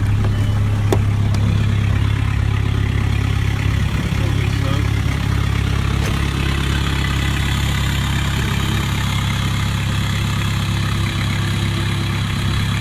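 2001 Volkswagen Jetta TDI's 1.9 ALH four-cylinder turbodiesel idling steadily just after a cold start in 19°F weather without a block heater, heard through its 2.5-inch turbo-back straight-pipe exhaust.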